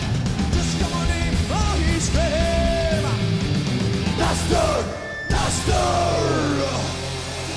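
Heavy metal music with shouted, yelling vocals over loud, dense guitars and drums; it briefly breaks off about five seconds in, then resumes.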